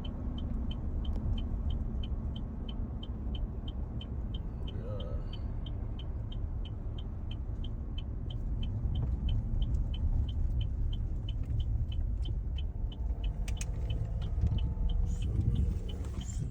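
Car running at low speed, heard from inside the cabin as a steady low rumble, with the turn-signal indicator clicking about three times a second.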